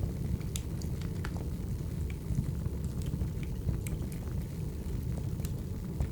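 Wood fire burning: a steady low rumble with scattered sharp crackles and pops from the logs at irregular intervals.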